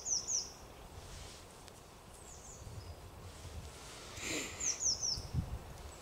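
A small bird calling: quick runs of three or four high, falling chirps, once at the start and again near the end, over a quiet outdoor background with a faint rustle around four seconds in.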